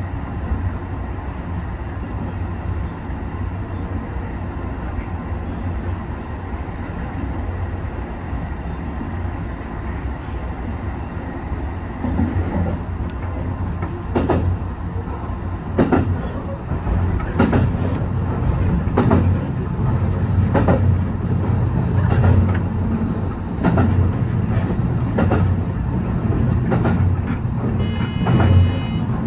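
Train running on the rails, heard from the cab: a steady low rumble, with rail-joint clicks about every second and a half from about halfway through. A brief high tone sounds near the end.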